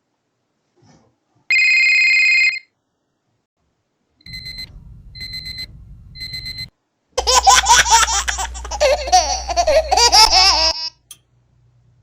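A run of household sound effects: a telephone ringing once for about a second, an alarm clock beeping in three short bursts, then a baby laughing for a few seconds, with faint clock ticks near the end.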